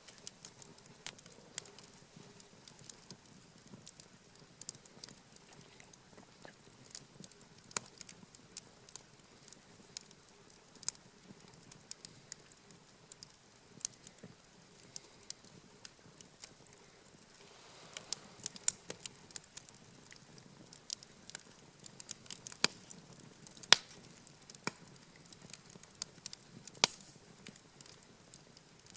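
Wood campfire crackling, with scattered sharp pops at irregular moments. The pops come thicker from a little past halfway through.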